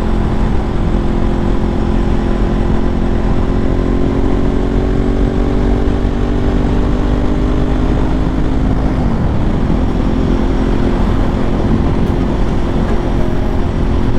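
Ducati 1098's L-twin engine pulling steadily under way, its pitch slowly rising for about nine seconds, then dropping suddenly and settling lower, with heavy wind rush over it.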